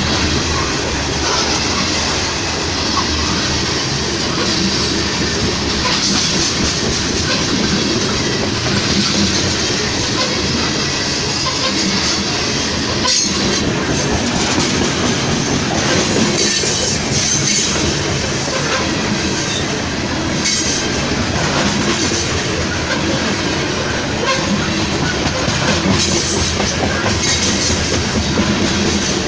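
Train rolling past at close range: a steady loud rumble and clatter of steel wheels over the rails, with no horn.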